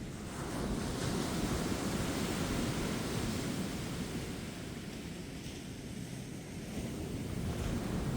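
Ocean waves breaking and washing up a beach, the surf swelling soon after the start, easing in the middle and building again near the end, with wind rumbling on the microphone.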